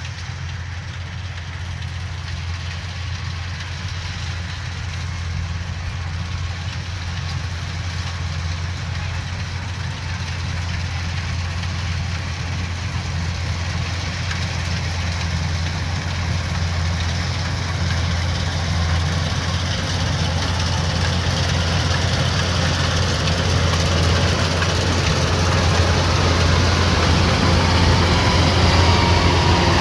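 Kubota DC105X combine harvester's diesel engine running steadily with a deep hum, growing gradually louder throughout as the machine comes closer.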